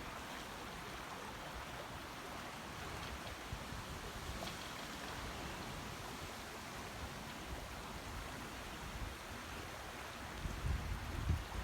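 Steady rush of flowing spring water. Low gusts of wind buffet the microphone near the end.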